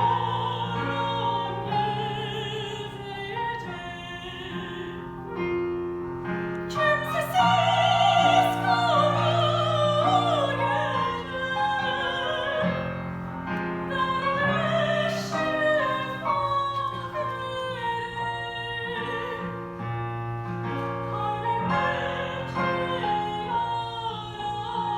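Mezzo-soprano singing a classical-style song with wide vibrato over piano accompaniment, her line swelling to its loudest, highest phrase about a third of the way in.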